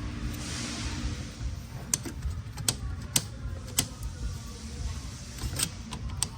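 Sharp metallic clicks and clinks, about half a dozen spread out, as 6L80 automatic transmission clutch parts are handled and seated in a clutch drum, over a low shop hum. A soft hiss comes in the first second.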